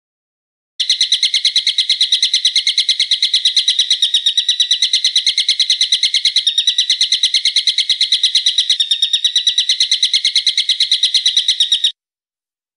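Songbird giving a long, sharp, high-pitched trill of rapidly repeated notes, about eight a second, held evenly for some eleven seconds. It starts abruptly and cuts off abruptly.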